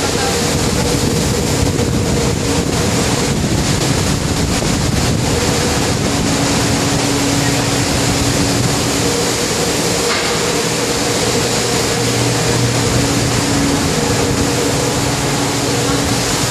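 Storm at sea: a loud, steady rush of wind and waves, with a low steady hum underneath.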